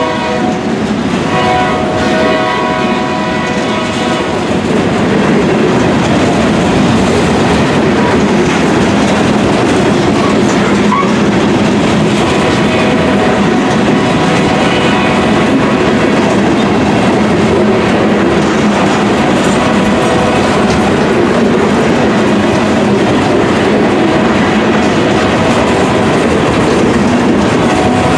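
Long, heavily loaded freight train: its horn sounds a chord that fades out over the first few seconds, then loaded freight cars roll past with a steady rumble and clatter of wheels on rail.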